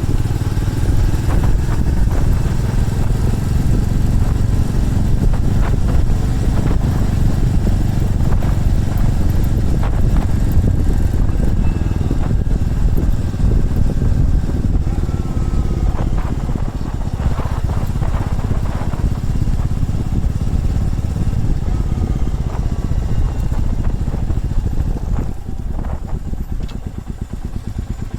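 Motorcycle engine running on the road with wind noise, its pitch rising and falling with the throttle, then easing and getting quieter near the end.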